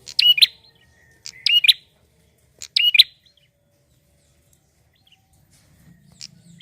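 Male prinia (prenjak) singing: three short, sharp, high-pitched chirping phrases about a second and a half apart, then a pause of a few seconds.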